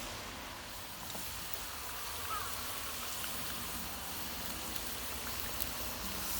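Food sizzling over a charcoal fire: a steady hiss with a few small pops.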